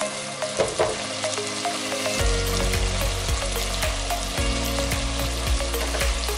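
Minced chicken frying and sizzling in hot oil in a pan, with scattered pops. For the first couple of seconds a spatula scrapes and taps against the pan as the mince is stirred.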